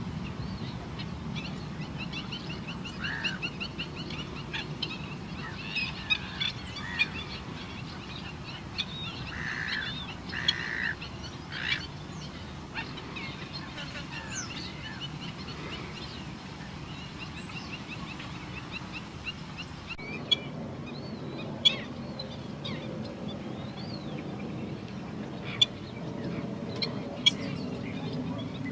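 Wild birds at a river-estuary wetland calling: rapid chattering trills and short chirps over a steady low rumble, with a few sharp clicks in the later part.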